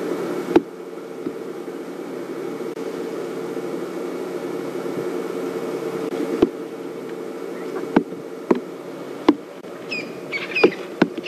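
A steady low drone with a few sharp clicks, and short repeated bird chirps starting about ten seconds in.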